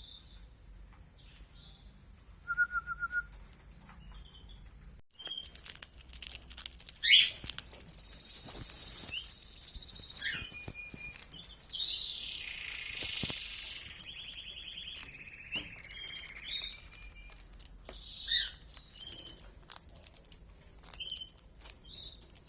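Pet cage birds chirping, with a long trilling song in the middle and wings fluttering among small taps.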